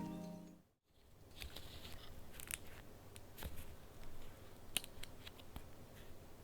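Paper handling of a handmade junk journal: faint rustles, crinkles and light clicks of pages and paper pieces, after the last notes of a soft intro melody fade out in the first moment.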